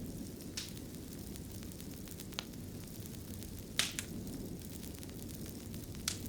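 A fireplace fire crackling: a steady low rumble of flames with sharp pops, five in all, two of them close together about four seconds in.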